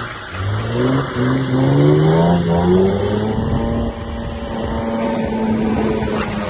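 Drift car's engine revving hard, its pitch climbing in three short steps over the first three seconds, then held steady at high revs.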